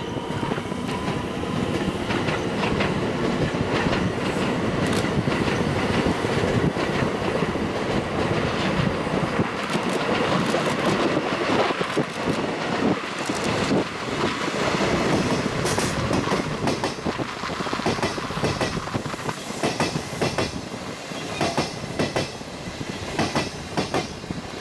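JR DD51 diesel-hydraulic locomotive hauling 12-series passenger coaches, running steadily as it approaches and passes. From about halfway on, the wheels clack over rail joints in quick groups as the bogies go by.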